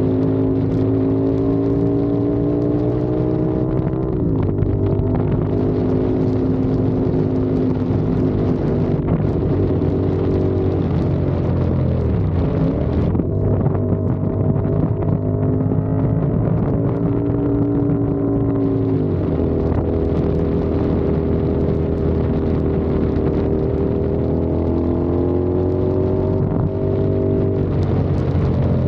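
CFMOTO 450SR's parallel-twin engine and exhaust while riding, its note holding or slowly climbing, then dropping sharply about four seconds in, again around thirteen seconds, and once more around nineteen seconds, as with gear changes or closing the throttle.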